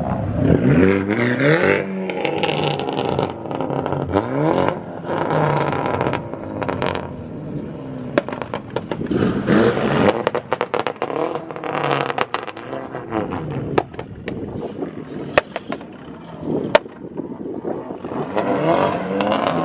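Car engines revving and accelerating several times, each run rising in pitch, with sharp pops and clicks scattered throughout.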